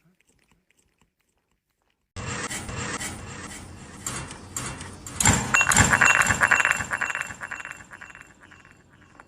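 Silence for about two seconds, then a sudden run of rapid clinking and rattling, loudest around the middle and fading toward the end.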